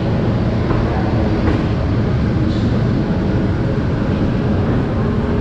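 A moving train's steady running rumble.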